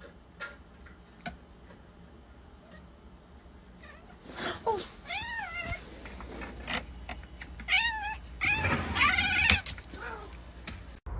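Domestic cat meowing several times, starting about four seconds in, the calls wavering in pitch, with a longer drawn-out meow near the end. A couple of light clicks come before it.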